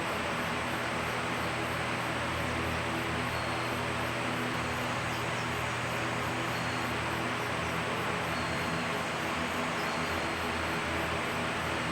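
Steady, even hiss with a constant low hum underneath, like a running fan or motor, and a faint high chirp or two.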